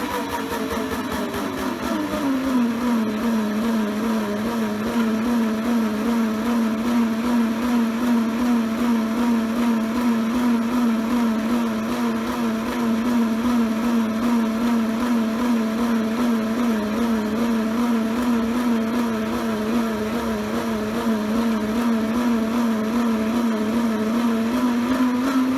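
Small electric motor of a modified toy washing machine spinning sudsy rags. Its whine drops in pitch over the first couple of seconds, then holds low and steady with a slight waver, and rises again near the end. The low pitch shows the motor struggling slightly against the drag of the suds.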